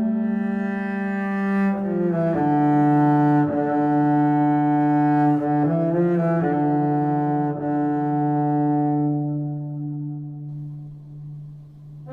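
Slow, low bowed-string melody in the cello range, moving in steps between held notes; near the end one long low note is held and fades away.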